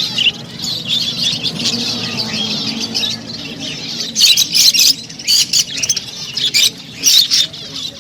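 A crowd of caged budgerigars chattering and chirping without pause, growing louder with sharper, squawking calls from about halfway through.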